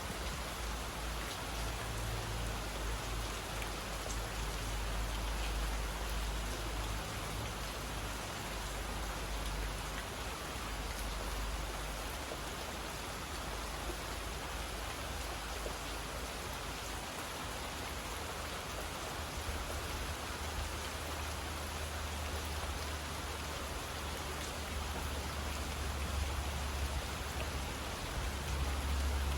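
Steady rain falling, an even hiss of drops with a low rumble underneath that swells and fades.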